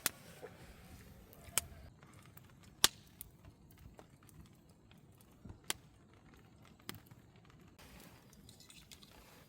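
Wood campfire crackling, with sharp, irregular pops about once a second over a faint low background.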